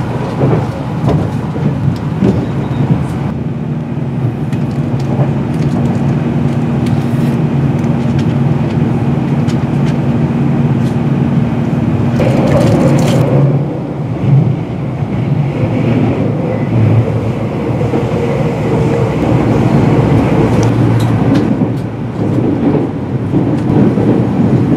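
Running noise of a Meitetsu μSKY (2000 series) electric train heard from inside the passenger cabin at speed: a steady rumble with a steady hum for several seconds, which ends with a brief louder rush about halfway through.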